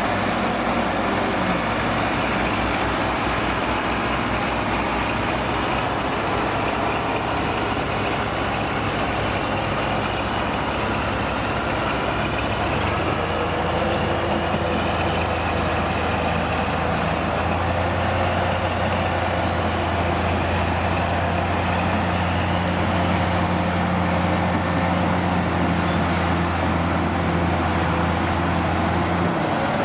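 Heavy vehicle's diesel engine running at a steady speed over a background of other engines; its low hum grows louder from a little before halfway and stops shortly before the end.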